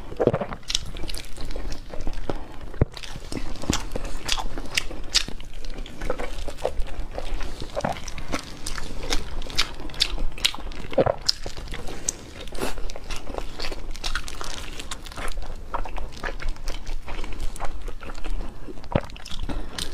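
Close-miked chewing and biting of braised pork belly, with a steady run of quick mouth clicks and smacks, several a second.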